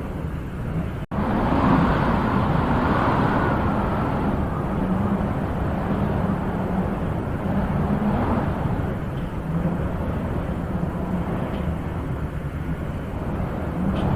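Wind blowing steadily with a deep rumble, swelling in gusts and easing off again, broken by a split-second dropout about a second in.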